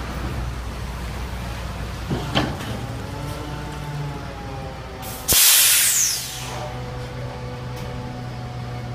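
Compressed natural gas garbage truck's engine running with a steady hum, a loud burst of air hiss about five seconds in that lasts about a second.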